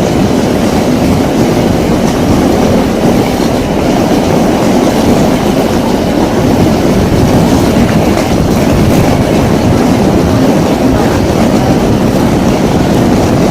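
A train running past on the rails, a loud, steady rumble of wheels and carriages.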